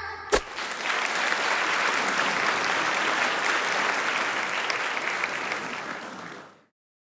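Audience applauding, a steady clapping that swells in and fades out over about six seconds, then cuts off. A single sharp click comes just before it starts.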